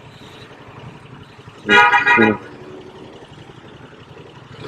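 A vehicle horn sounds two short beeps in quick succession about two seconds in, over the steady road and wind noise of a motorcycle being ridden.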